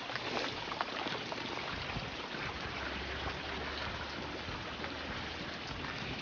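Heavy rain falling steadily, a downpour.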